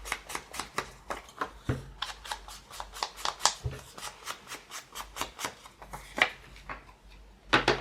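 Ink blending tool dabbed and swiped quickly around the edges of a paper card: a fast run of short scuffing strokes, several a second, that stops near the end, followed by a few louder knocks of the paper being handled.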